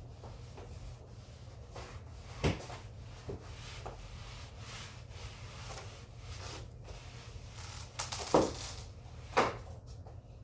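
A hard floor being cleaned by hand: soft rubbing and swishing strokes, broken by several wooden knocks, the two loudest near the end, over a steady low hum.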